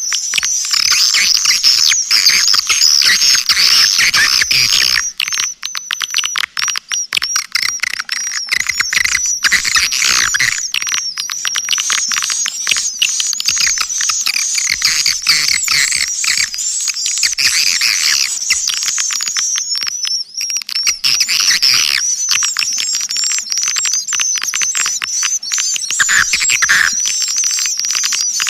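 Swiftlet lure call, a recorded 'suara panggil' of edible-nest swiftlets played to draw the birds into a swiftlet house. It is a dense, continuous chatter of high twittering chirps mixed with rapid clicking, with no low sound beneath it.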